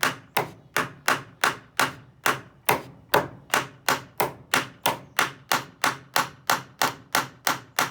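A hammer driving a nail into the wood of a bird feeder's risers: about twenty steady, evenly spaced blows, roughly two and a half a second. The nail is going in hard and resisting.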